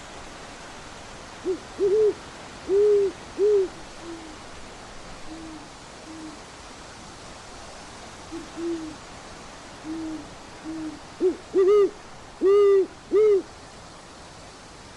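Owl hooting: a loud phrase of four hoots, short notes with a longer one third, given twice, with fainter, lower hoots answering in between.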